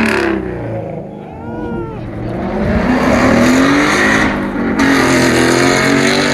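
A car engine revving loudly. Its pitch climbs in two long rising sweeps with a short drop between them.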